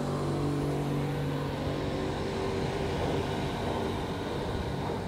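Passenger train pulling away from a station platform: a low steady hum that fades about halfway through, over a steady rumble of the carriages.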